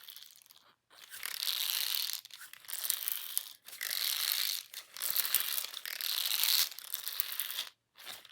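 Dry crinkling, rustling noise coming in bursts of about a second with short gaps between them, about five in all.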